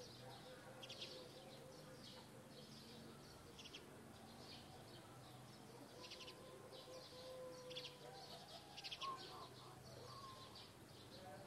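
Faint chirping of small birds: short, high twittering chirps, some as quick rattling trills, repeating irregularly over a low steady hum.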